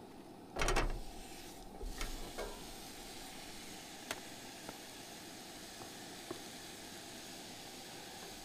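Fajita meat and peppers sizzling as they are tipped into a hot stainless steel frying pan. The sizzle is loudest as the food lands about half a second in, then it carries on steadily, with a few light clicks of tongs against the pan.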